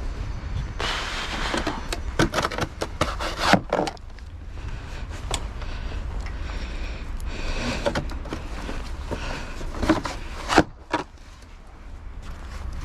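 Scraping and knocking sounds in two bunches, one about a second in and one near the end, over a steady low rumble.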